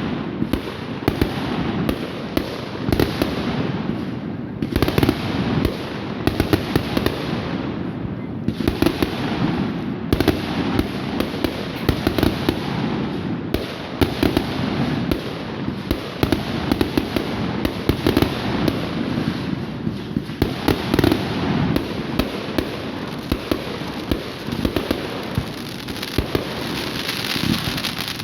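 Fireworks going off in a dense, continuous barrage of bangs and crackles, many per second.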